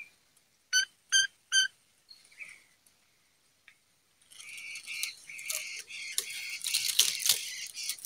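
A fledgling bird, which the uploader calls a pelanduk semak, gives three short, sharp calls in quick succession about a second in. From about four seconds in comes a long spell of close scratching and rustling as the bird is handled right up against the phone.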